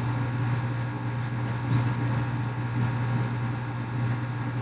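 Steady low mechanical hum with even background noise.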